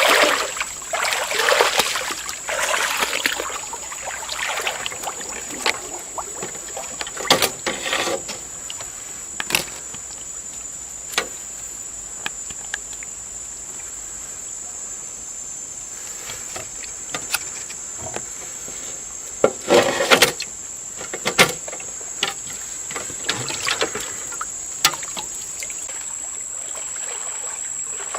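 Water splashing and sloshing in irregular bursts, busiest near the start and again about two-thirds of the way in, over a steady high-pitched insect buzz.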